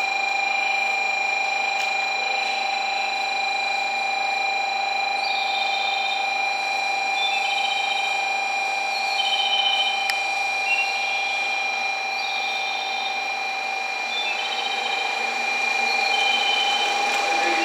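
N700 series Shinkansen pulling slowly into the platform: a steady hiss and hum with several constant tones. From about five seconds in, short high-pitched notes repeat in small groups every second or two.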